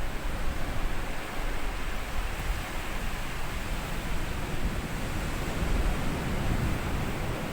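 Small sea waves washing up on a sandy beach and drawing back, a steady rushing wash with gentle swells in loudness.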